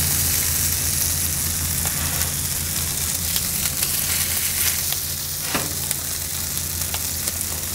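Cubed cooked brisket sizzling in hot oil on a flat-top griddle as it is laid out to reheat, a steady frying hiss with a low steady hum underneath.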